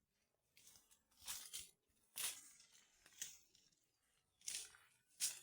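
Faint, irregular crunching and rustling of dry vegetation, about six short crunches a second or so apart.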